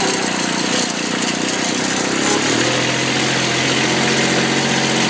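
Kubota diesel tractor engine running steadily on a cold day; its note shifts to a steadier, slightly different pitch about halfway through.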